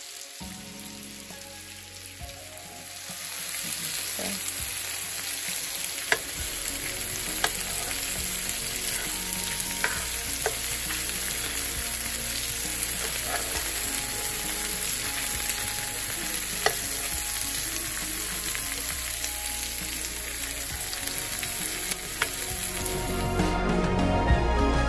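Tiger shrimp sizzling in butter and oil in a frying pan, growing louder a few seconds in, with occasional sharp clicks of metal tongs against the pan as the shrimp are turned.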